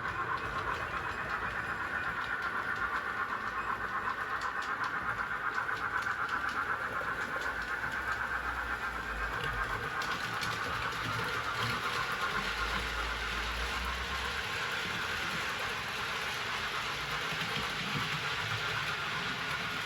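Model train running on a layout: a steady motor whine with faint ticking of wheels over the track.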